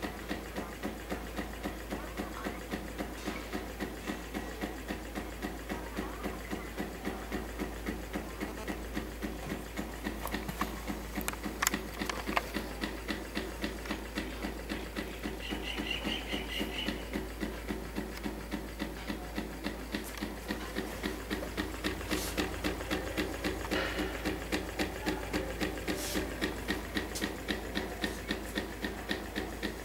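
Homemade gamma-type test-tube Stirling engine running, its mechanism knocking in a steady, even rhythm of about two beats a second, with a few sharper clicks.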